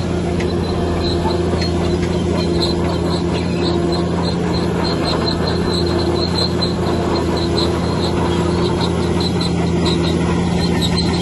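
Heavy diesel earthmoving machine, most likely the bulldozer, running steadily at a constant engine speed. Over it comes a rapid run of short high squeaks, a few per second.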